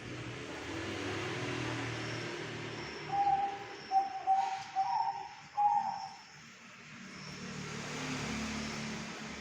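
A bird calling a quick series of short, low whistled notes about three seconds in. Faint high peeps repeat about once a second over a low traffic rumble.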